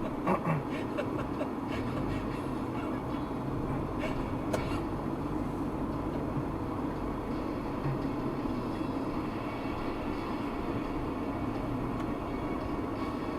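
Steady road and engine rumble of a vehicle driving along, with a few faint clicks near the start and about four and a half seconds in.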